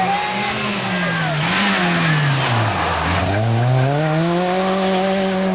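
Rally car engine with the revs falling steadily for about three seconds as it slows, then climbing again as it accelerates away.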